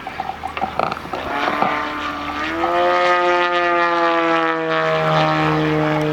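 Propeller-driven engine of a large-scale Yak 54 model aircraft in flight, a steady drone that rises sharply in pitch a little over two seconds in and then slowly sinks in pitch while staying loud.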